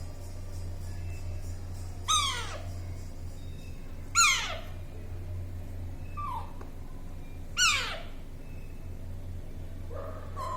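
A small parrot giving three loud, harsh calls that each slide steeply down in pitch, about two seconds apart, with a fainter shorter one between the second and third. Short yelps come in near the end, over a steady low hum.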